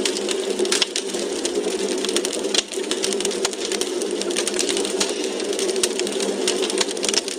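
Wood fire burning in a fireplace: dense, irregular crackles and pops from the logs over a steady low rushing hiss.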